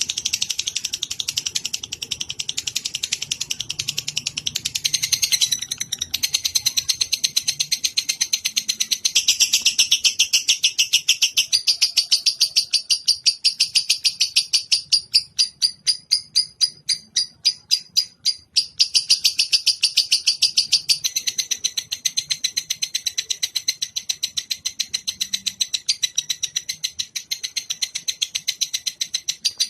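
Songbird song from a bird-training (masteran) recording: a fast, high, buzzy trill of rapid, evenly spaced pulses that runs on in long phrases. Around the middle the pulses slow into separate strokes, then the fast trill resumes.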